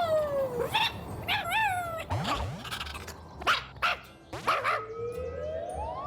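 Cartoon character yips and squeaks whose pitch slides up and down, mixed with a few sharp clicks. Near the end comes one long rising whistle-like glide.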